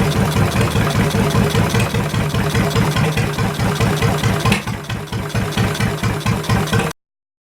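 A Ford Model T engine cut down to a two-cylinder boat motor, running steadily with an even pulsing beat. The sound cuts off abruptly near the end.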